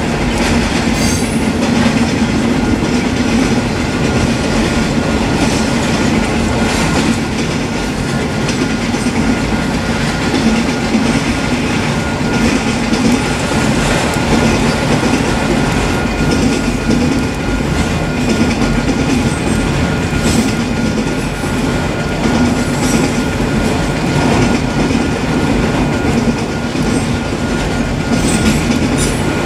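Freight train cars rolling past at a steady speed: a loud, steady rumble of steel wheels on rail with clicking over the joints.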